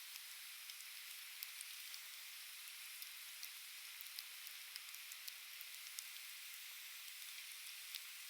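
Burning softwood (conifer) logs in an open fire crackling, with many small sharp pops several times a second over a steady hiss.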